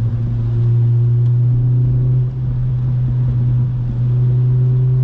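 8th-generation Honda Civic Si's 2.0-litre i-VTEC four-cylinder engine and exhaust running steadily under way, heard from inside the car, with a brief dip in level about two seconds in.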